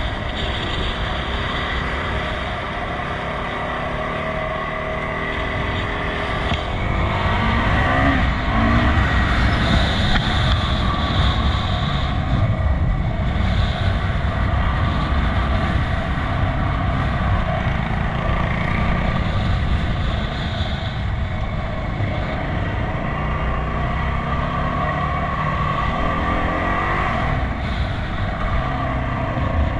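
Enduro motorcycle engine running under way, its pitch rising as the throttle is opened about a quarter of the way in and again near the end, with a steady low rumble of wind and ground noise.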